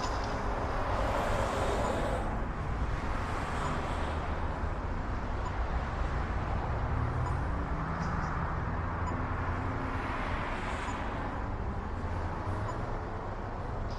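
Steady road and traffic noise, with vehicles swelling past every few seconds.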